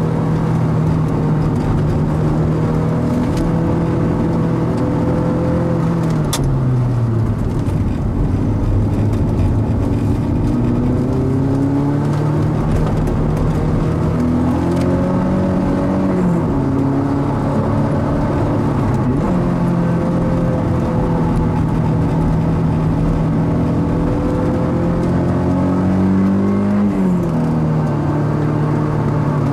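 Mazda NC Roadster's stock four-cylinder engine under load on a circuit lap. The revs climb and hold, then drop sharply several times at gear changes and braking, over steady road and tyre noise.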